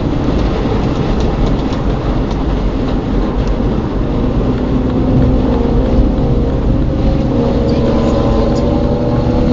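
Car on the move: steady engine and road noise, with a faint steady engine tone in the second half.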